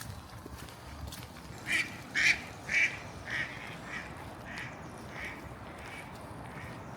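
A duck quacking in a run of about nine quacks, the first few loudest and the rest fading away.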